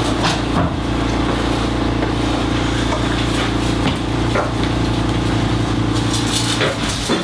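A motor running with a steady hum, with a few light knocks over it; the hum eases off about a second before the end.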